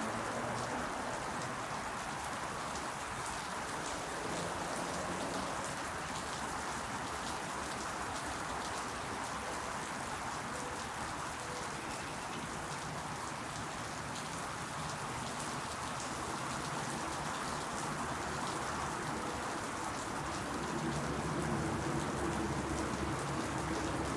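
Steady rain falling, an even hiss of many small drops. A low hum comes in near the end.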